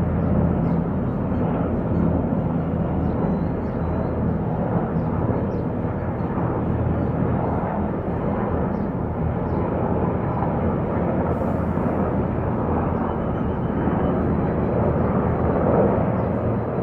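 Military helicopters flying past: a steady drone of rotors and engines.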